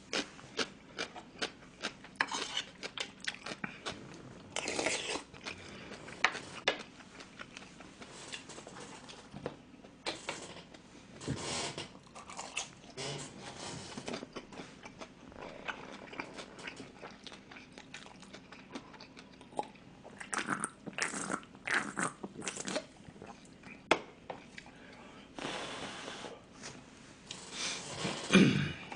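Close-up mouth sounds of a person chewing food with a full mouth: wet chewing with many short, sharp crunches and smacks.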